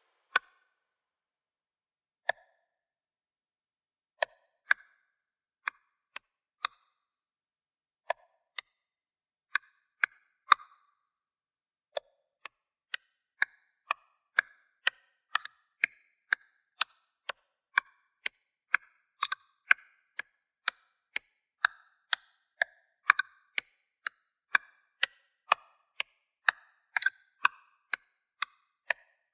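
Dry electronic percussion clicks, woodblock-like with a short pitched ring, playing alone with silence between hits. They start sparse and fill in on a steady grid of about two a second, building up a rhythm.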